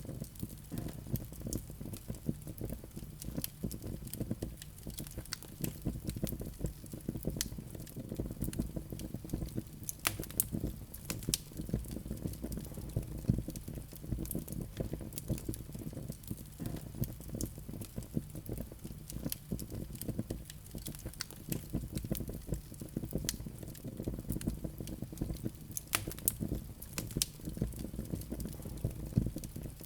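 Wood fire burning in a fireplace: a steady low rumble of flames with frequent small crackles and pops, a few sharper pops scattered through.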